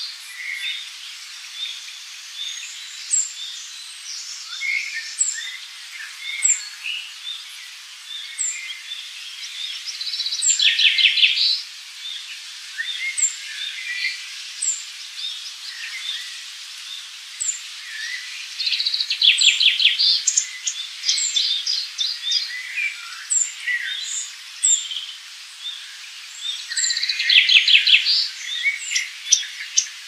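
Forest birds singing. A short, high chirp repeats every second or two, and a louder, rapid trilling song comes three times, roughly eight to nine seconds apart.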